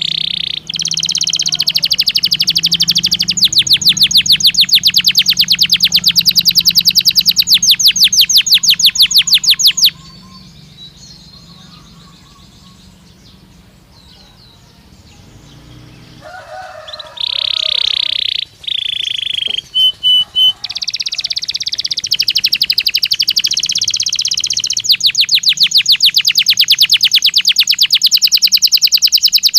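Belgian canary singing, loud, in long phrases of very fast rolling trills, breaking off for several seconds midway before starting again with more rapid trills.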